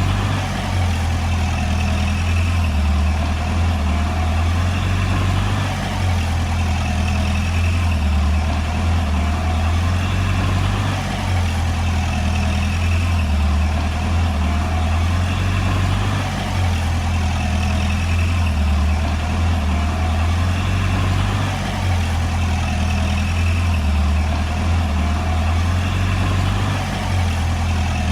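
Komatsu D20P bulldozer's diesel engine running steadily under work, a deep low hum with small dips in level about every five seconds.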